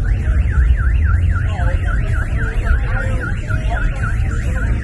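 Car alarm siren wailing, its pitch sweeping rapidly up and down about four times a second, over a steady low rumble.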